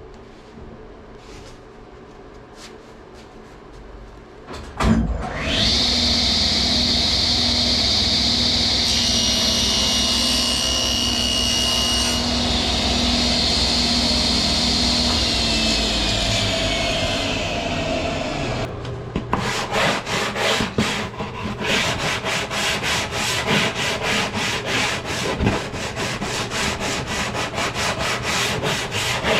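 A stationary woodworking power saw is switched on with a thump, runs at speed with a high whine, then is switched off and spins down. After that come rapid, rhythmic back-and-forth rubbing strokes on wood.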